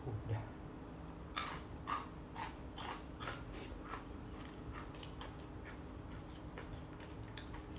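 Close-up chewing of fried food: crunchy bites about twice a second, loudest for the first few seconds and then softening into smaller mouth clicks, over a steady low hum.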